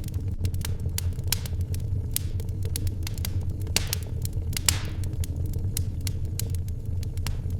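Wood fire in a fireplace crackling: a steady low rumble under frequent, irregular sharp pops, with one louder pop a little under five seconds in.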